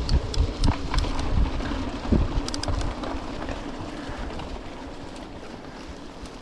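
Wind buffeting the microphone of a camera on a moving mountain bike, with heavy low thumps over the first few seconds and a few light rattling clicks. It then settles into a steadier, gradually fading rush.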